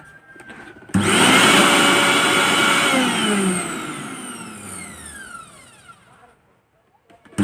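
Mixer grinder motor switched on with a sudden start, running at full speed for about two seconds, then switched off and winding down with a falling whine until it stops. It starts up again at the very end. It is a test run after sewing-machine oil was put into the drive to cure excessive noise.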